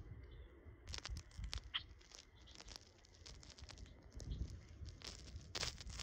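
Small birds feeding: irregular pecking clicks and crunches as they pick at food, with one short high chirp a little under two seconds in.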